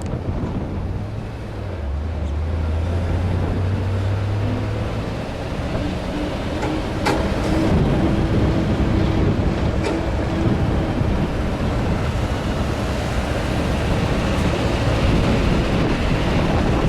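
1982 Chevy C30 one-ton truck's 5.7-litre small-block V8 running as the truck drives, growing louder over the first few seconds, with road and wind noise.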